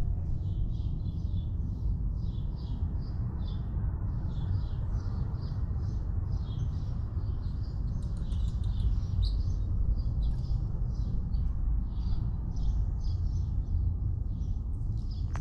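Small birds chirping in a quick, steady run of high chirps, two or three a second, over a steady low rumble of noise on the microphone.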